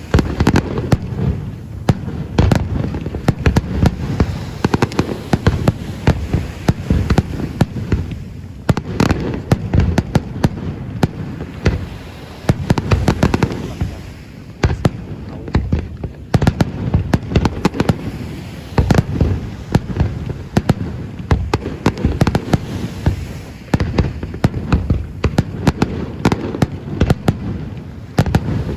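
Fireworks display in full barrage: a dense, continuous run of bangs and crackles from bursting shells, easing off only briefly a few times before picking up again.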